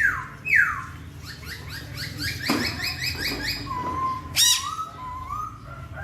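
Laughingthrush (poksay) singing: two loud whistles that slide downward, then a quick run of repeated notes, a sharp loud call about four and a half seconds in, and a level whistled note.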